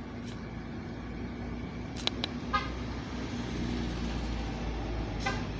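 Garbage truck engine running with a steady low rumble that swells a little midway, amid road traffic. Two short horn toots sound, one about two and a half seconds in and one near the end, with a couple of sharp clicks just before the first.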